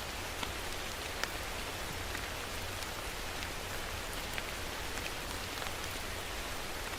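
Steady rain falling on a surface, an even hiss with scattered distinct drop ticks.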